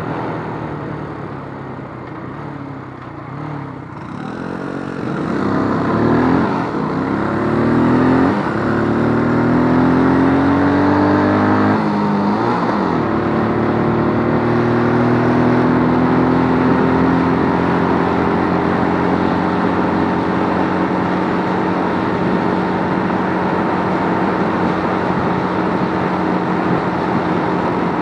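Keeway RKF125 125 cc single-cylinder motorcycle engine accelerating through the gears. Its note climbs and drops back at each shift, around 8 and 12 seconds in, then settles into a steady, slowly rising note as the bike cruises.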